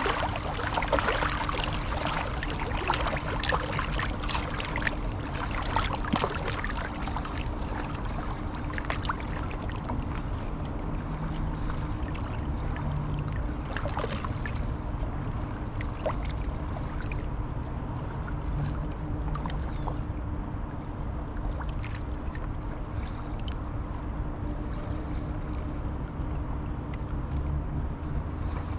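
River water flowing and lapping, with many small splashes and trickles that are busiest in the first third, over a faint steady low hum.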